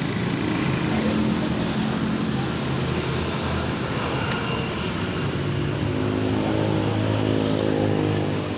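A motor vehicle's engine running, a low hum whose pitch drifts slowly up and down, over background traffic noise.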